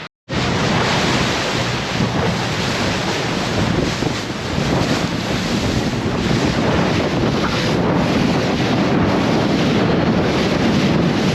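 Heavy wind buffeting the microphone over the rush of sea water, from a boat under way on open water. It cuts in suddenly just after the start and then runs on at a steady level.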